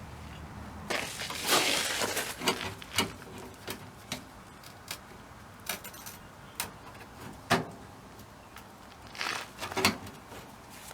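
Hand work on sheet metal and tools: a short rough burst of noise, then a string of separate sharp clicks and knocks, with a quick cluster of them near the end.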